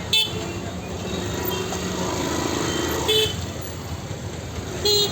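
Busy street traffic running steadily, with three short vehicle horn toots: one right at the start, one about three seconds in, and one at the end.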